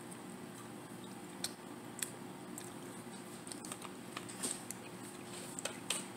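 People chewing pieces of a spicy mango snack: scattered small mouth clicks and smacks over a steady low room hum.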